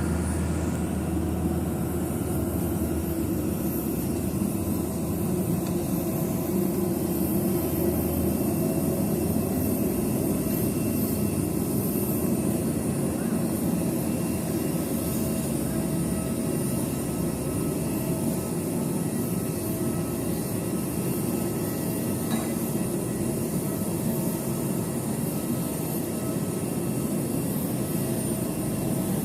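Wings Air ATR 72's turboprop engines heard from inside the cabin: a steady drone with a low rumble and faint steady tones, as the plane taxis after landing.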